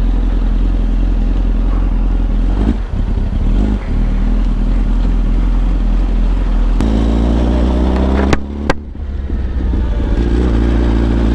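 Yamaha R1's inline-four engine running under way. Its note shifts to a different steady pitch about seven seconds in, and two sharp clicks follow a moment later.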